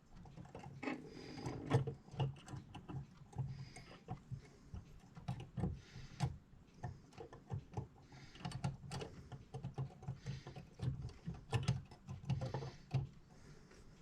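Small metal clock-movement parts (wheels, pinions, levers) and tools clicking and tapping irregularly as they are handled and fitted during reassembly of a mechanical clock.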